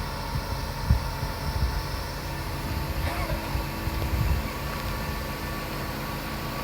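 A steady mechanical hum with a low, uneven rumble, like a running vehicle heard from inside; a brief faint sliding sound about three seconds in.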